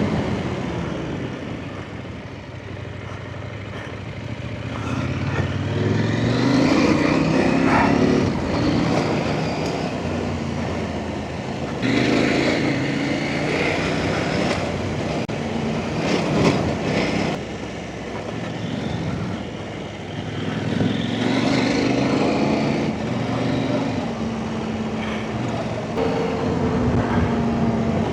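Off-road motorcycle engine revving up and down as the bike rides the trail, its pitch rising and dropping about five times, then running more steadily near the end.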